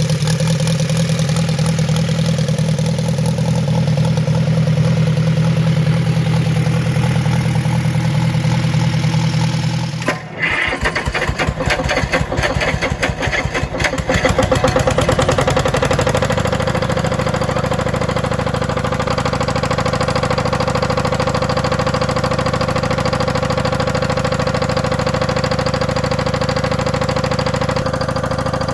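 A large old engine running steadily. About ten seconds in, the sound cuts to another big old engine starting: a quick run of firing knocks that settles within a few seconds into a steady run.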